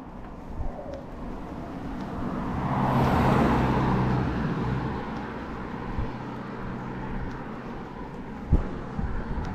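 A car drives past, its engine and tyre noise growing louder to a peak about three seconds in and then fading away.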